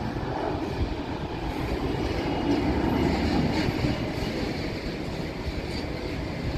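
Steady rumbling noise of a jet airliner's engines, with wind buffeting the microphone.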